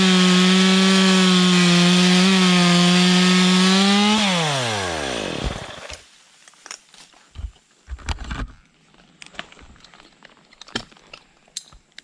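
Two-stroke top-handle chainsaw, a Stihl MS 201, running at full throttle as it saws through wood for about four seconds. The throttle is then released and the engine note falls away and dies out. Scattered light cracks and rustles of branches follow.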